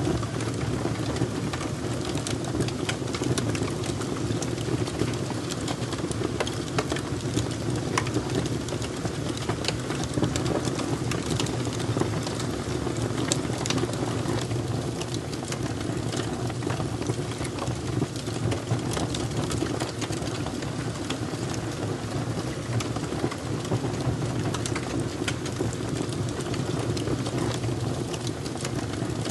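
Fire crackling: a steady low rush of burning with many small, sharp pops and snaps scattered through it.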